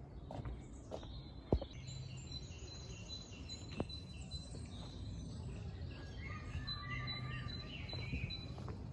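Small birds chirping and singing in short high phrases over a steady low background rumble, with a sharp click about one and a half seconds in and another near four seconds.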